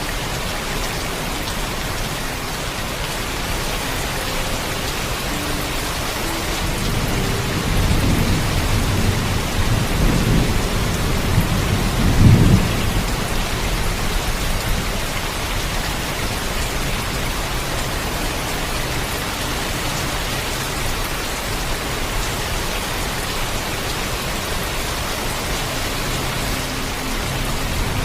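Heavy rain falling steadily, with a roll of thunder rumbling up about seven seconds in, peaking around twelve seconds and dying away a couple of seconds later.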